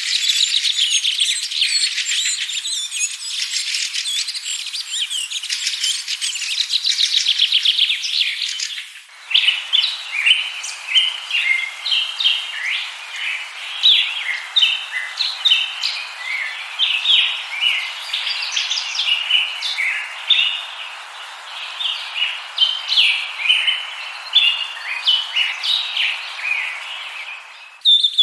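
Small birds chirping: fast, dense twittering for the first nine seconds or so, then after a cut, many short separate chirps over a steady hiss.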